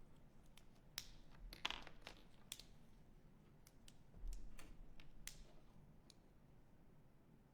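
Near silence with scattered faint clicks and light taps, about a dozen in the first six seconds, the loudest a short scrape nearly two seconds in, over a faint low hum: small handling noises while painting.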